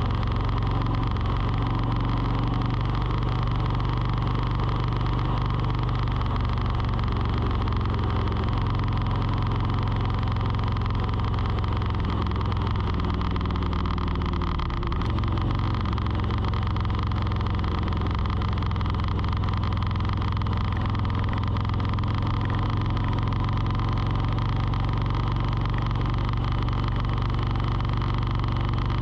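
A motor running steadily: a low hum with several steady tones over it, whose pitch dips briefly about halfway through.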